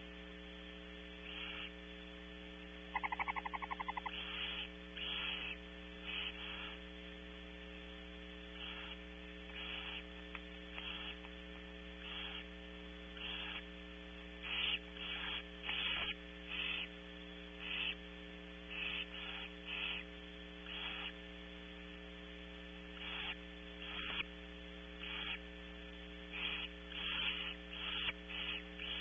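Barn owl nestlings giving repeated short hissing food-begging calls, irregular and roughly one a second, over a steady electrical hum. About three seconds in there is a brief rapid chittering run of about a second.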